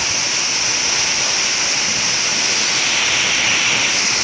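Waterfall rushing, a steady loud hiss of falling water that grows a little brighter about two and a half seconds in.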